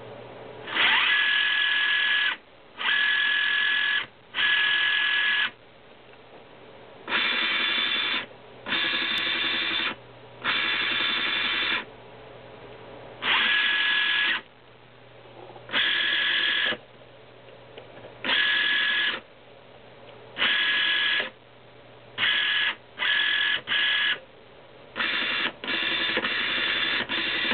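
Small electric motor whining in repeated bursts of about a second each, switched on and off, with shorter, quicker bursts near the end.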